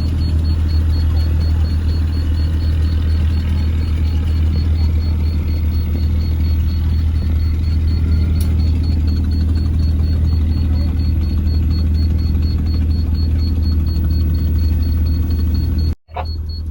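An engine running steadily at constant speed, a low unchanging drone with a faint high whine above it.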